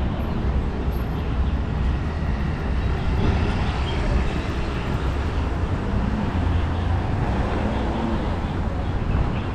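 Steady city street traffic noise: passing vehicles' engines and tyres, with people's voices in the background.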